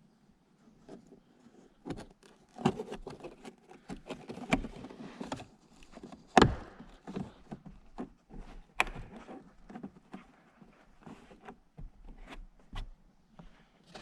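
Irregular handling noises of interior reassembly: scattered clicks, knocks and scrapes of parts and tools being handled, with one sharper knock about halfway through.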